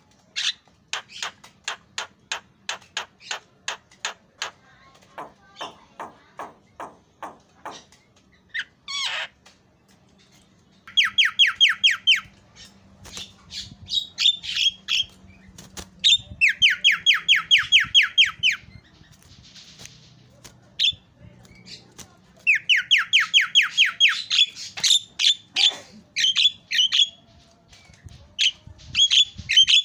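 Javan myna calling: a run of sharp repeated notes, about three a second, for the first eight seconds, then three loud, fast rattling trills of about two seconds each, with squeaky whistled notes between and after them.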